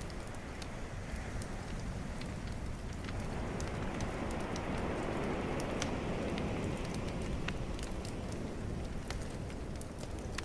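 Bonfire crackling with scattered sharp pops over the steady rush of calm ocean waves, which swell a little in the middle.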